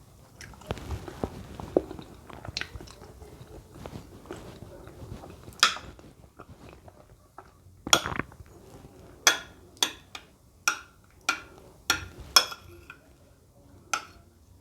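Close-miked chewing of soft cooked plantain: quiet wet mouth noises, then, about halfway through, a run of sharp wet smacks, several a second apart, that are the loudest sounds.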